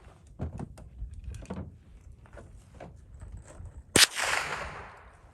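A single gunshot about four seconds in: a sharp crack followed by about a second of fading echo. Before it come a few soft knocks.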